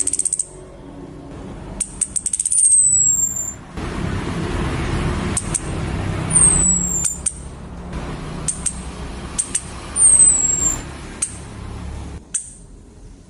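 Female orange-headed thrush calling: a thin, high whistle that slides downward, three times about four seconds apart, with short runs of quick high ticks between the whistles, over a low background rumble.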